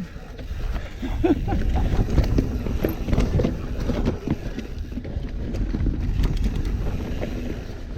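Mountain bike descending a rough downhill trail: wind on the microphone and tyre rumble, with frequent rattles and knocks from the bike over bumps.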